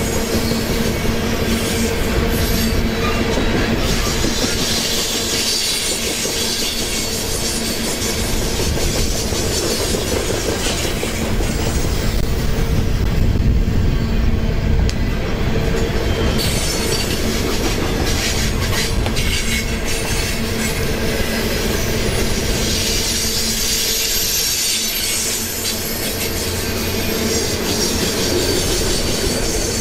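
Open-top coal cars of a BNSF freight train rolling past close by, their wheels clattering over the rail with a steady tone running underneath.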